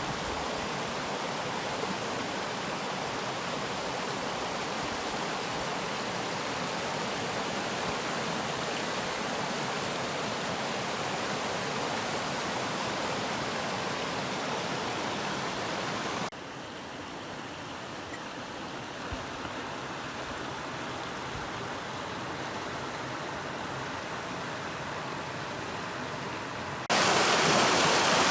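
Rushing water of a stream, a steady hiss and roar. The level drops abruptly about halfway through and jumps louder near the end, as the audio cuts between different spots along the water.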